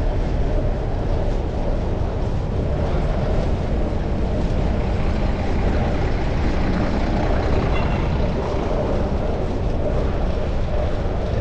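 Steady low rumble of wind and road noise while riding a fixed-gear bicycle, picked up by a chest-mounted GoPro action camera.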